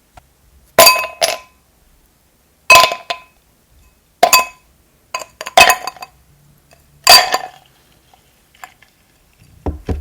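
Hard tableware clinking in a series of about six sharp strikes spaced a second or two apart, each ringing briefly, with softer knocks near the end.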